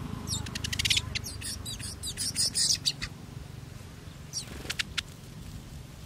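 Small birds chirping: quick bursts of high, rapid chirps and trills for the first few seconds, then a short falling call and a few sharp chirps around the middle.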